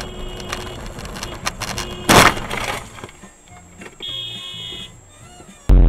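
Dash-cam audio of a car collision: scattered knocks, then a loud crunching impact about two seconds in lasting under a second, followed by a short, steady high beep. Near the end the sound cuts abruptly to a much louder recording.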